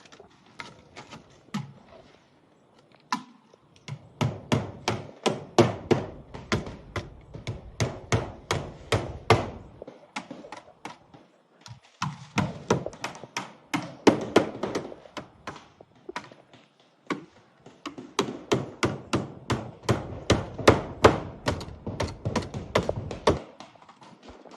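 Hammer striking repeatedly, about three blows a second, in three long runs with short pauses between: nails being driven into stone-coated roof tiles.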